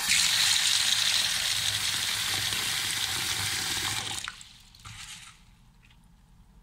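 Kitchen tap running, water pouring into a plastic bowl of mung beans to fill it for soaking. It shuts off about four seconds in, with a fainter splash of water lasting about another second.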